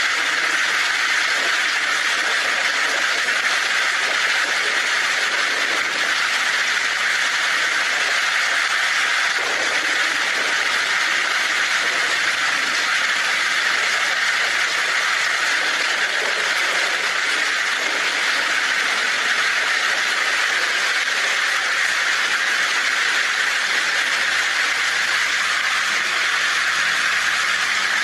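Heavy rain falling steadily on a tin roof, an even hiss with no thunder claps.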